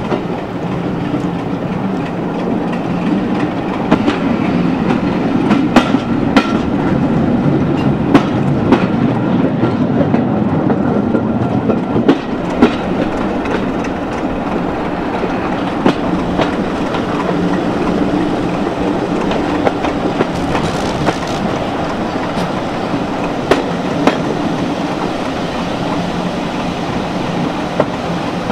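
Train of passenger coaches running along jointed track, heard from an open carriage window at the rear: a steady rolling rumble with irregular sharp clicks as the wheels cross rail joints and points.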